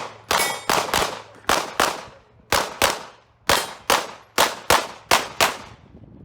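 9mm Glock pistol firing rapid pairs of shots, about a dozen in all: two quick shots on each target, then a short pause while moving to the next.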